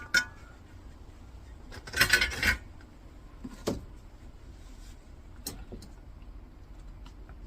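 Loose metal parts of a dismantled electricity meter being handled on a bench: a short metallic clatter about two seconds in, then a few light clicks.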